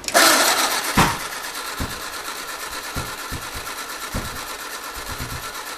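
1951 MG TD's XPAG four-cylinder engine being cranked by its starter motor, with a fast, even ticking throughout. Irregular low thumps break through as the engine coughs and fires sporadically without catching; the loudest comes about a second in.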